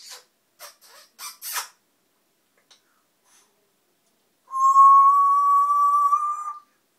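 A pet African parrot makes a few short clicking sounds, then gives one long whistle about two seconds long, held on one pitch and rising slightly. The whistle is the loudest sound.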